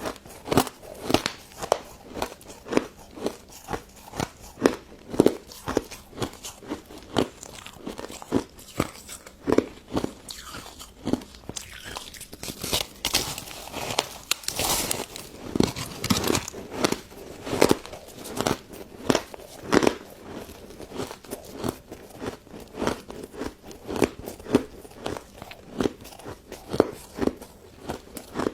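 Close-miked crunching and chewing of a crystal snow-ice dessert: a steady run of crisp crunches, a few every second.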